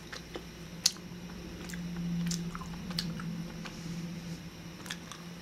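A person chewing a soft jelly sweet with the mouth closed: wet squishing with a few sharp clicks, and a low hum that swells about two seconds in and fades.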